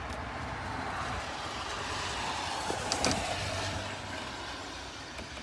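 Steady noise of a car driving, with a couple of faint clicks about three seconds in.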